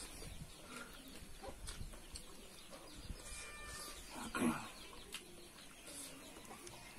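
Close-miked wet chewing and small mouth clicks of someone eating a chunk of spicy pork belly by hand, with a short, louder animal call about four and a half seconds in.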